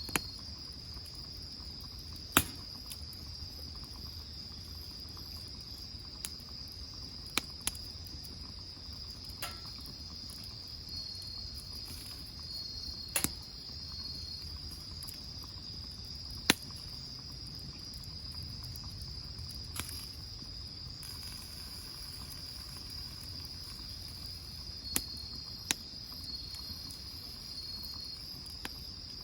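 Insects singing in a steady, continuous high trill, with a fainter on-and-off trill just below it. About ten sharp pops sound one at a time every few seconds, the crackle of the wood fire.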